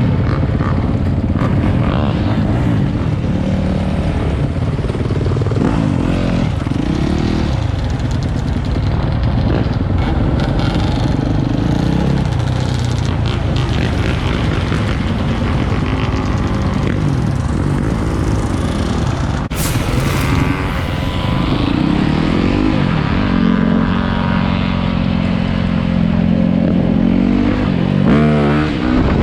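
Motorcycle and dirt bike engines running in a group, revving up and down several times.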